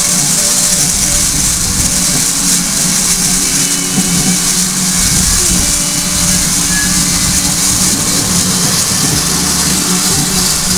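Standing railway locomotive, a loud steady hiss over a low steady hum.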